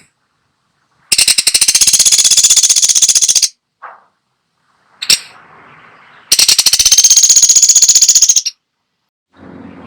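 Woodpecker (pelatuk sampit) giving two long, very fast rattling series, each about two seconds, starting about a second in and again about six seconds in, with a short faint note and a click between them.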